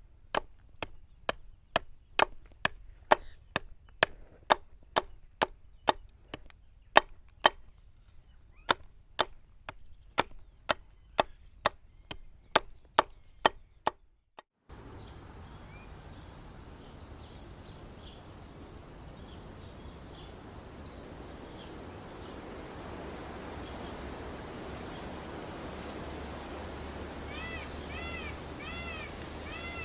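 Steady chopping, sharp strokes about two a second, that stops about 14 seconds in. After a cut there is an even hiss that slowly grows louder, and a bird chirps several times near the end.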